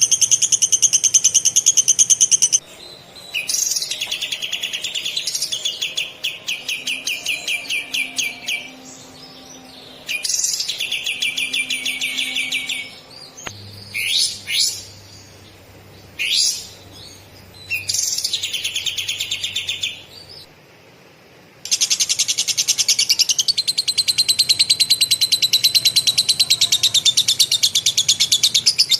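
A kapas tembak (katem) songbird sings very fast, tight rolling trills of copied lovebird song. The trills come in several long runs with short gaps, a few sharp rising chirps come about halfway through, and a long unbroken roll fills the second half.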